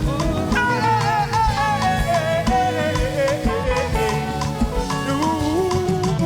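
Upbeat live praise-and-worship music from a church band, with melodic lines over a steady drum beat.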